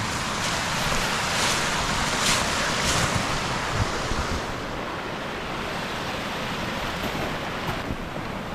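Mountain river rushing over rocks: a steady noise of flowing water, a little louder in the first half.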